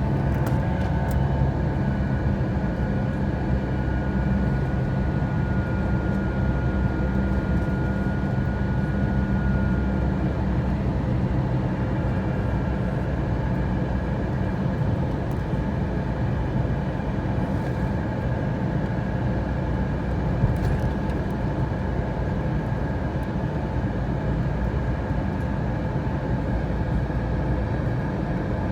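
Steady drone of an airliner cabin in flight, engine and airflow noise, with a faint thin whine that fades out about ten seconds in.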